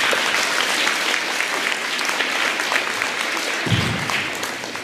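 A large group of schoolchildren clapping. The applause holds steady and thins out near the end.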